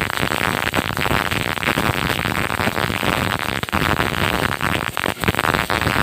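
Welding arc crackling steadily as a weld is run on a large steel pipe: a dense, irregular sputter of rapid pops.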